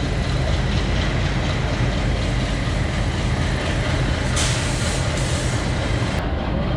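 Diesel locomotive engine working under load as it hauls the train away, heard from the coach directly behind it, with a steady deep rumble and train running noise. Just past the middle a hiss rises over it for about two seconds and then cuts off.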